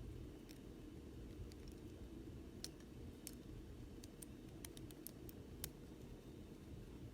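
Faint, scattered small clicks of plastic model-locomotive parts being handled as the N scale truck side frames are fitted back on, over a low room hum.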